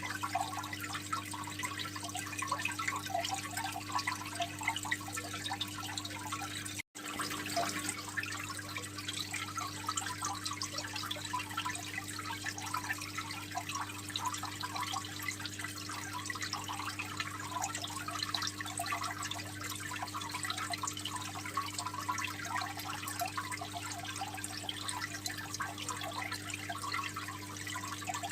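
Aquarium water trickling and splashing steadily, a dense patter of small drips and bubbles, over a steady low hum. The sound cuts out for an instant about seven seconds in.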